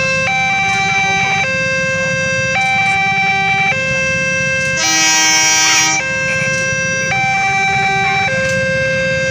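Railway level-crossing warning alarm sounding a loud two-tone electronic signal, switching between a higher and a lower tone about once a second, over a low rumble. About five seconds in, a louder, different horn-like blast lasts about a second.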